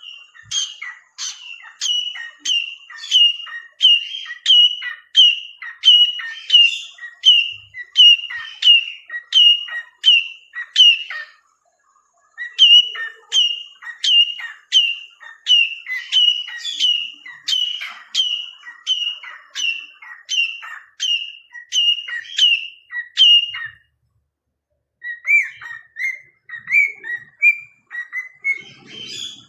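Cockatiel calling in runs of short, sharp chirping whistles, about two a second, with two brief pauses. Near the end the notes turn lower and softer.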